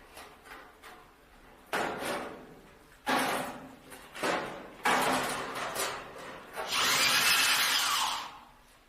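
A power tool run in several short bursts, then one longer run of about a second and a half that winds down at the end.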